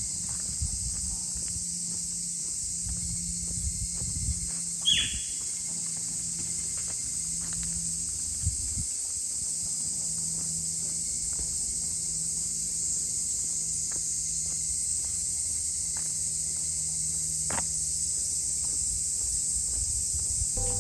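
Steady, high-pitched chorus of insects such as crickets, with scattered faint clicks and knocks and a brief falling chirp about five seconds in.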